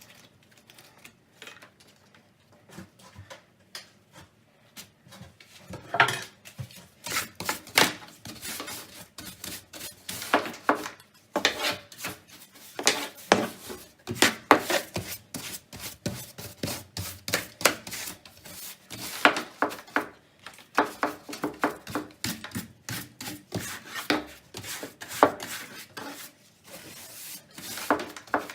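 Repeated rubbing and scraping strokes against a hard surface, short and irregular in pace.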